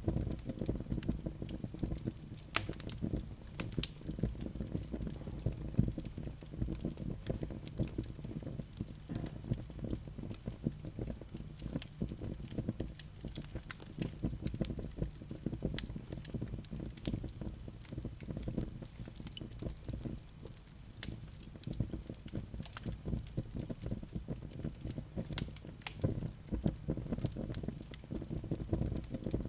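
Wood fire burning in a fireplace: frequent small crackles and sharp pops from the burning logs over a low, steady rumble of the flames.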